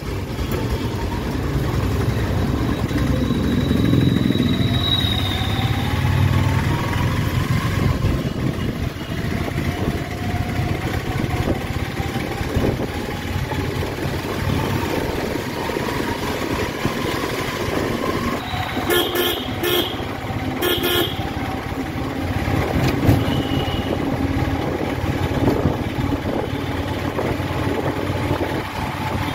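Steady rumble and rushing noise of a train running over a steel truss bridge, with a faint motor whine that rises slowly in pitch during the first half. About two-thirds of the way through, a vehicle horn honks in a quick run of about four short blasts.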